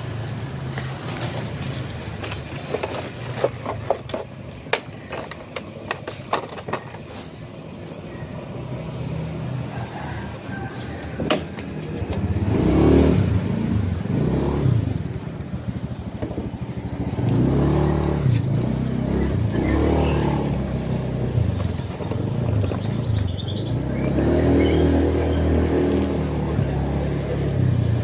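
Motor vehicle engines running and revving in road traffic, louder from about twelve seconds in. A series of sharp clicks comes a few seconds in.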